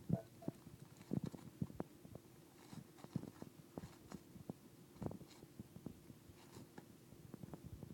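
Dog tearing and pawing at a wrapped gift: faint irregular taps, scrapes and crinkles of paper being bitten and pulled.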